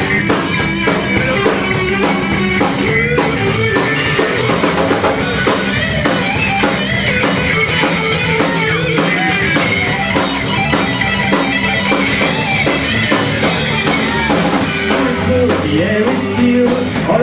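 Rock band playing live: electric guitar over a steady drum kit beat.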